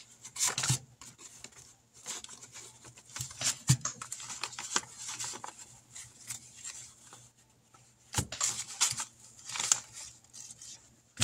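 Paper handling: dollar bills and envelopes rustling and sliding, with scattered sharp clicks and crinkles as the money is sorted into envelopes.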